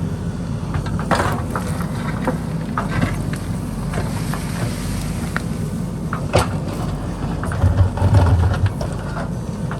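JCB backhoe loader's diesel engine running steadily, with scattered sharp knocks and clatter as it digs into the hillside. The engine grows louder for about a second near the end.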